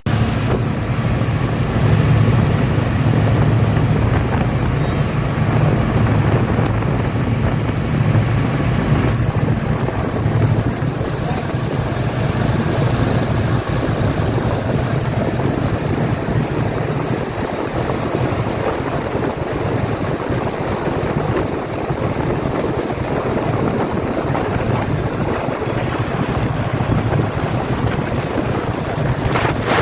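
Speedboat engines running steadily under way, a low drone under the rush of water and wind buffeting the microphone.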